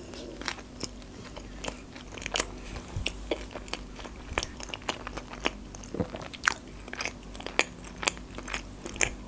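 A mouthful of salmon and cream-cheese sushi roll being chewed close to the microphone: irregular short clicking mouth sounds, a few a second.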